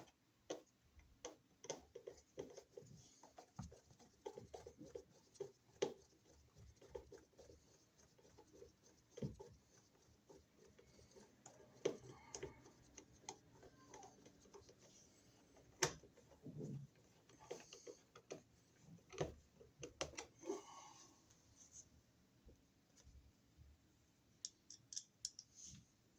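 Faint scattered clicks, taps and scrapes of a screwdriver and a metal-strapped wall receptacle being handled as the outlet's mounting screws are driven into the electrical box, with a few sharper clicks.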